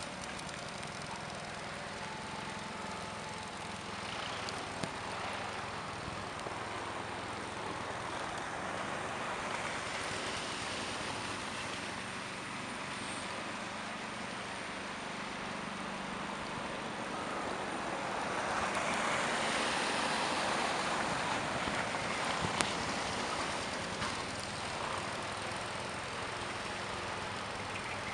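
Steady vehicle and road noise, swelling louder for a few seconds about two-thirds of the way through.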